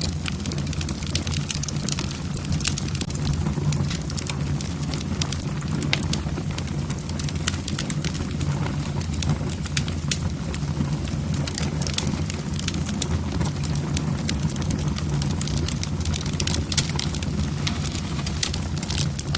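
Log fire in a fireplace crackling, with frequent irregular sharp snaps and pops over a steady low rumble.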